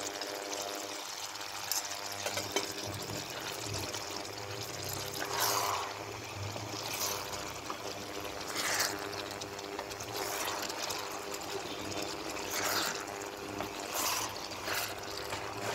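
Plums with garlic, dried chillies and ginger sizzling steadily in hot mustard oil in a pan. Every second or two there is a louder scraping stroke of a spatula stirring them.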